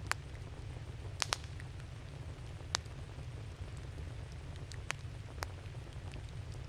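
Wood campfire crackling: a handful of sharp pops, two in quick succession about a second in and single ones near three and five seconds, over a steady low rumble.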